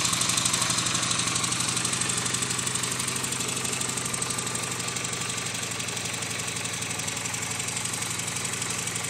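Victory Jackpot motorcycle's V-twin engine idling with a steady, rapid pulsing beat, easing slightly in loudness over the first few seconds.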